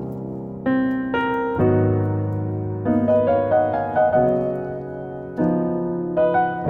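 Background piano music: slow chords struck one after another, each ringing out and fading before the next.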